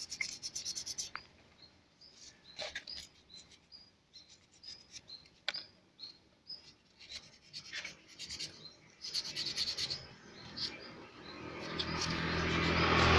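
Irregular scraping and clicking of metal parts being handled and worked, with short, high bird chirps repeating through it. Near the end a low engine hum swells and grows loud.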